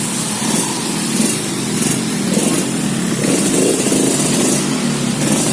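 Yamaha RX-King's two-stroke single-cylinder engine running on a test ride, after its slipping clutch was fitted with new original clutch plates.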